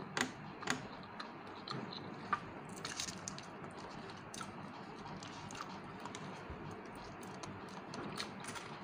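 A person chewing food up close, with many small mouth clicks and smacks scattered irregularly.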